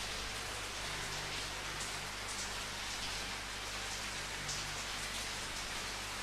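Steady rain falling, an even hiss of many drops, with a couple of sharper drop splashes standing out.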